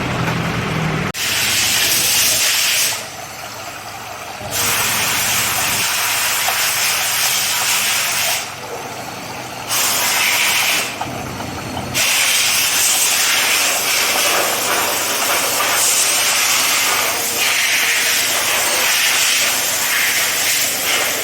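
A high-pressure jet, air or water, hisses loudly against a radiator during its service. It starts about a second in, breaks off briefly three times, then runs on steadily.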